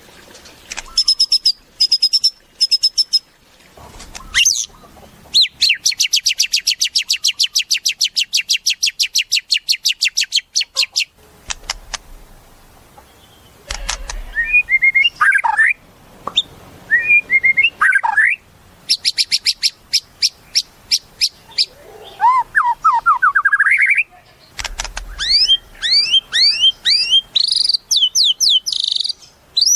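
White-rumped shama (murai batu) singing a long, varied song. It moves from a fast run of repeated notes, at about eight a second, to short chattering phrases, then a run of rising sweeps and finally a series of falling whistles.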